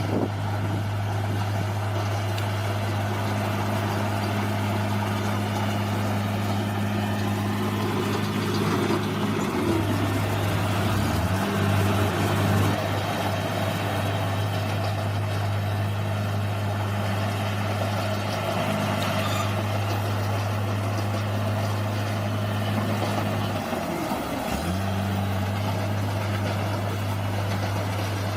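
Bulldozer's diesel engine running steadily with machinery noise over it. Its pitch dips and recovers twice, about ten and about twenty-four seconds in.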